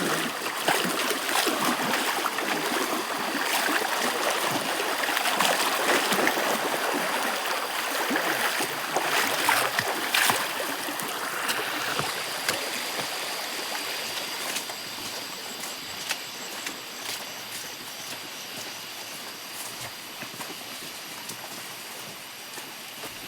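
A forest stream running: a steady rush of flowing water that grows fainter over the second half, with scattered small clicks.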